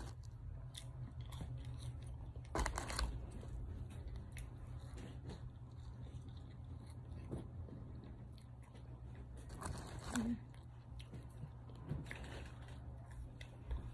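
Chewing French fries, with a few brief louder noises about three and ten seconds in, over a steady low hum.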